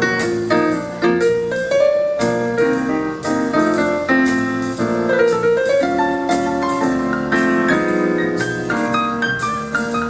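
Live small jazz band playing, with the piano to the fore, running chords and quick lines over a steady beat from the drums and bass.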